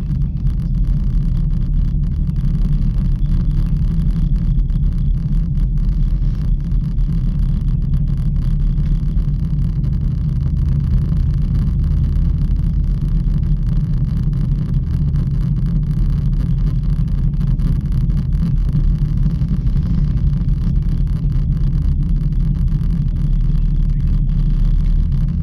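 Steady low rumble of a ropeway gondola in motion.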